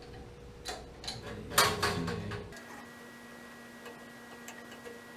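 Sharp, irregular metallic clicks and taps from hand tools working on an old gas water heater's burner assembly, the loudest about one and a half seconds in. After about two and a half seconds the sound drops to a faint steady hum with a few light ticks.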